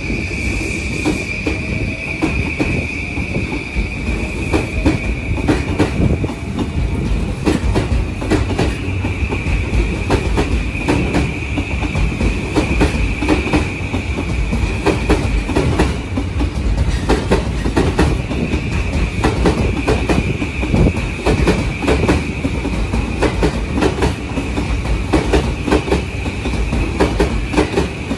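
JR East E235 series 1000 electric commuter train running past alongside the platform, its wheels clicking and knocking over the rail joints over a steady rumble. A steady high-pitched whine runs along with it.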